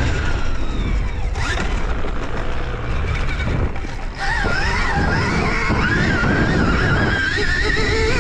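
Vehicle running: a steady low noise with a high whine that wavers up and down in pitch, dipping briefly a couple of times.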